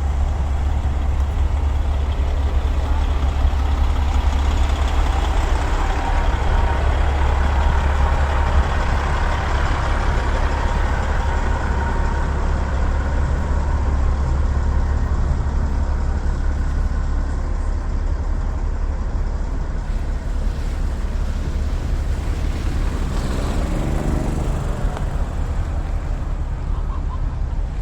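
Heavy trucks running and moving, over a steady deep rumble, with a brief pitched sound from a passing vehicle about three-quarters of the way through.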